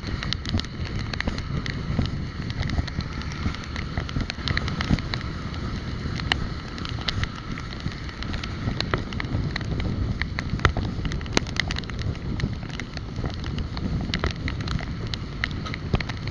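Wind buffeting the microphone of a camera riding on a moving bicycle, a steady low rumble with frequent irregular clicks and rattles.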